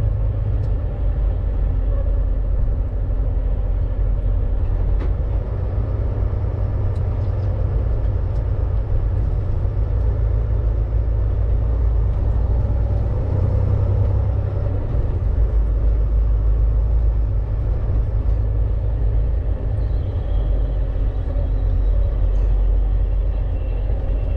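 Steady low rumble of a Volvo VNL 860 semi-truck's diesel engine running, heard from inside the cab.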